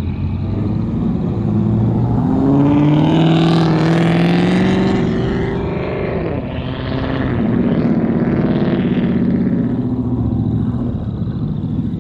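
A car engine accelerating hard: its pitch climbs for a few seconds, drops sharply about six seconds in as it shifts gear, then climbs again.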